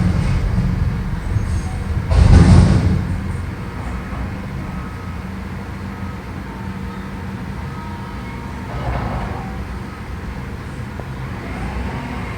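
Diesel engine of a Mack front-loader recycling truck running with a steady low rumble, with a loud rushing burst of noise about two seconds in and a smaller swell later.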